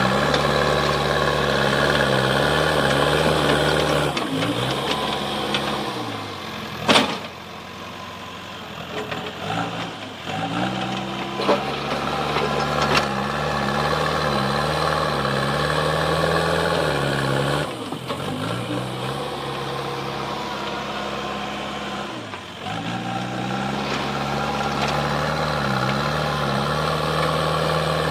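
Backhoe loader's diesel engine working, its pitch sagging and picking up again twice. A single sharp knock about seven seconds in, with a few lighter clanks later.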